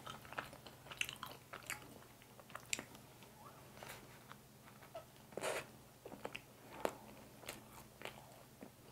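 Close-miked eating: a cream-filled mocha bun is bitten into and chewed, with a scatter of short wet mouth clicks and smacks. The loudest comes a little past halfway.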